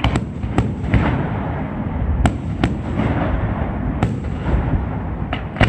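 Aerial fireworks display: sharp bangs of bursting shells every half second to second and a half, over a continuous low rumble and crackle from the barrage.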